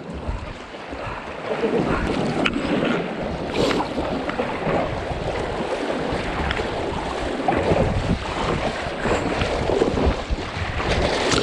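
Fast river water rushing and splashing around a kayak in rapids, with wind buffeting the microphone and a few short knocks and splashes scattered through it.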